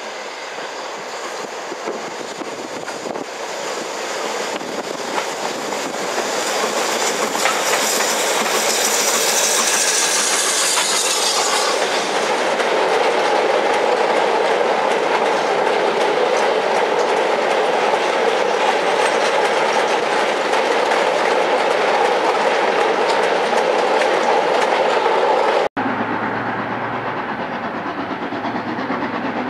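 Steam-hauled goods train passing close by: a hissing approach builds over the first several seconds, then a rake of steel mineral wagons rolls past with a steady clatter of wheels over the rail joints. Near the end it switches abruptly to a quieter, more distant train running.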